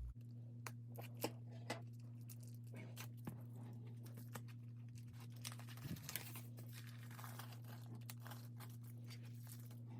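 Faint crinkling, tearing and small clicks of plastic shrink wrap being torn and peeled off a boxed album, over a steady low hum.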